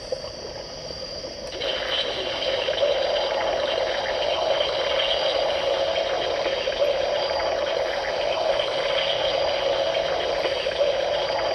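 Hasbro Spengler Neutrona Wand's slime-blower sound effect in slime mode, played through the toy's small speaker: a continuous gushing, liquid-like spray noise that swells about a second and a half in and then holds steady.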